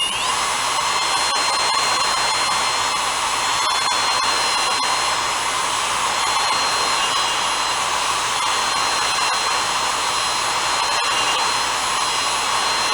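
Electric drill spinning a small brake-cylinder hone inside the cylinder bore of a 1962 Honda Cub 50 engine. It runs steadily at constant speed, a high whine over the rough hiss of the hone stones on the bore.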